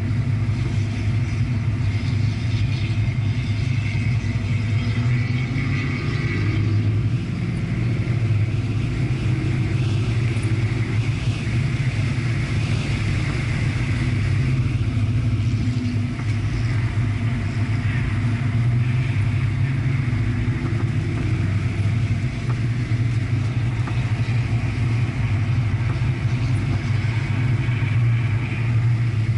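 Car engine and tyre and road noise heard from inside the cabin. The engine comes down as the car brakes from about 73 mph to under 20 mph for a slow corner, then pulls back up as it accelerates to about 50 mph.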